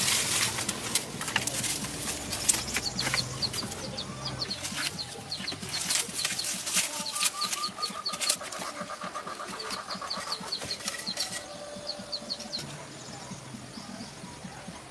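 A small bird chirping in quick runs of short high notes, about four a second, over scattered sharp clicks and knocks that are thickest in the first half.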